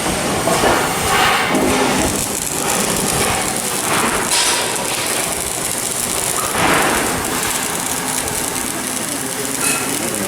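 Shipyard work noise: a loud, steady hiss of machinery and tools, with louder surges of hissing about a second in, around four seconds and near seven seconds.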